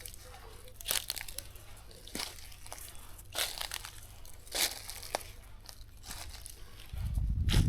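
Slow footsteps crunching through dry leaf litter and brush, one crackly step about every second. A loud low rumble, like wind or handling on the microphone, comes in near the end.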